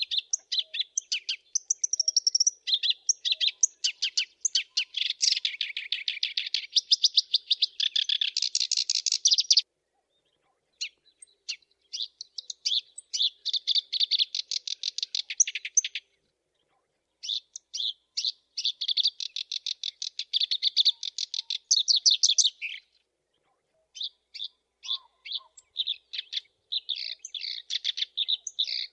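Black-browed reed warbler singing long phrases of fast, high, rapidly repeated notes, pausing briefly about three times.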